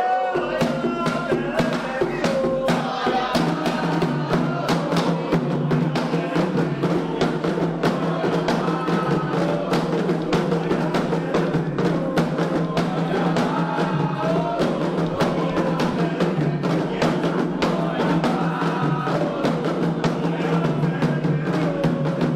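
Candomblé ceremonial drumming: dense, fast hand-drum strokes in a steady rhythm, with singing over it.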